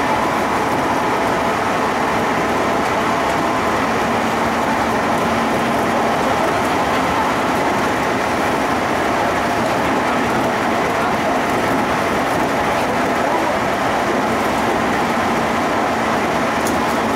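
Steady running noise of a JR Central 211 series 5000 electric train travelling through a tunnel, heard from inside the car: wheels on rail and motor running at an even speed.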